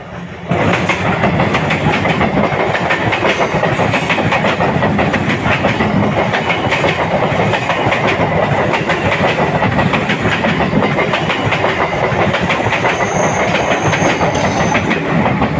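Electric multiple unit commuter train running past close by, its wheels clattering over the rail joints in a dense, steady rhythm of clicks. It gets suddenly loud about half a second in as the coaches reach the camera and stays loud as they go by.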